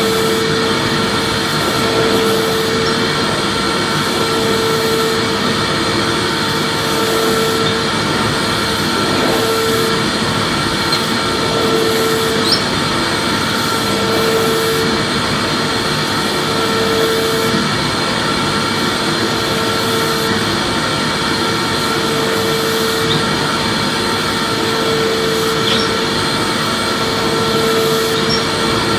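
Vacuum cleaner running steadily: a constant rushing whine with fixed tones in it, one of which swells and fades about every two and a half seconds.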